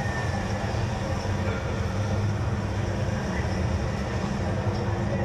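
Steady low rumble of a vehicle in motion, unbroken, with faint voices in the background.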